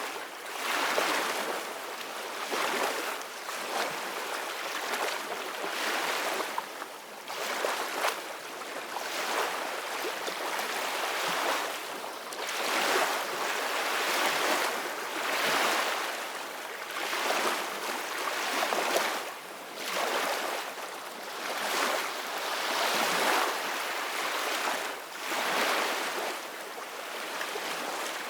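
Ocean waves breaking and washing in, a continuous hiss of surf that swells and ebbs every couple of seconds.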